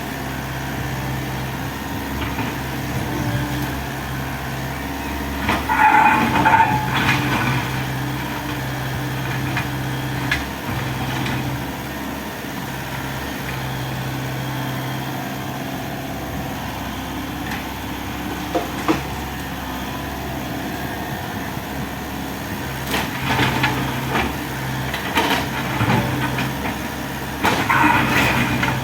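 Hydraulic excavator's diesel engine running steadily, with bursts of clattering and knocks from demolition debris several times, the loudest about six seconds in and near the end.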